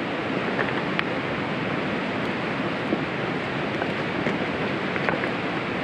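Steady rushing noise of wind and rain outdoors, with a few light clicks from sticks being set over the campfire.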